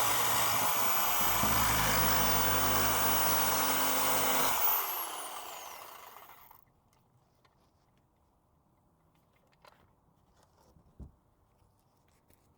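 A handheld power tool running steadily as it cuts, then switched off about five seconds in and winding down with a falling whine. Afterwards only a few faint clicks and a light knock.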